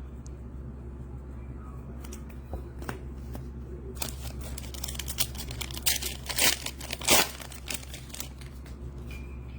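Foil trading-card pack wrapper being torn open and crinkled: a run of crackling, tearing rustles from about four to eight seconds in, over a steady low hum.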